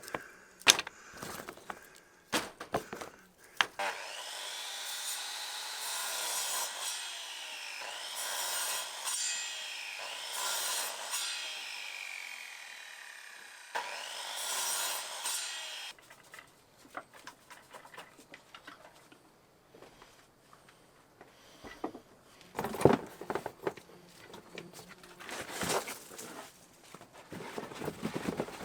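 A power saw cuts branch wood into round slices, running about twelve seconds with its pitch rising and sagging as the blade bites. Before and after, wooden pieces knock and clatter as they are handled.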